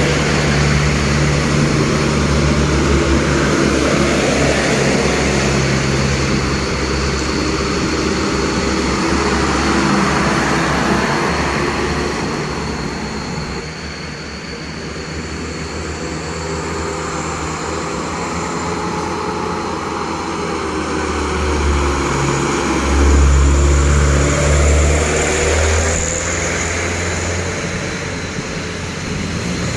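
Diesel engines of medium trucks in a convoy driving past, with a steady low engine note. It fades somewhat near the middle and grows loudest about two-thirds of the way through as a truck comes close.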